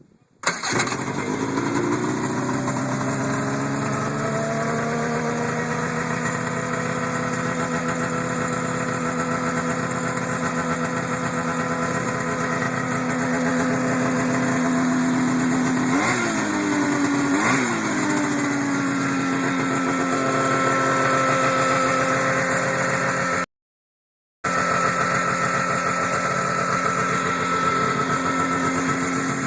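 1979 Arctic Cat Jag 3000 snowmobile's two-stroke engine starting up about half a second in and then idling steadily. It is blipped twice, briefly, in the second half.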